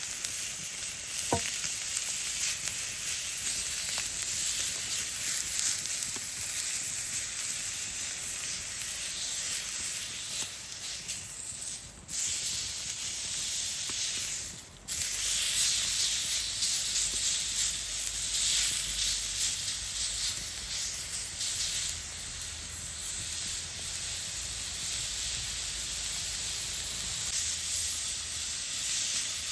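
Meat sizzling as it cooks over a campfire: a steady hiss with fine crackles, broken briefly twice, about twelve and fifteen seconds in.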